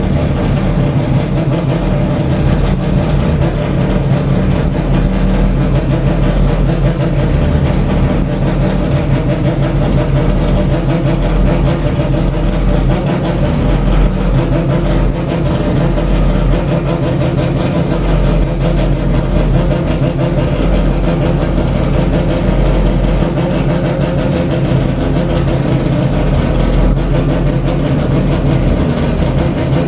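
Mazda 787B's four-rotor R26B rotary racing engine idling steadily and loud, with no revs.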